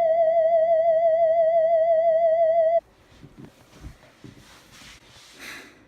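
A single held electronic note with a steady vibrato, like a theremin or synthesizer tone, that cuts off suddenly about three seconds in. Faint rustling and handling noises follow.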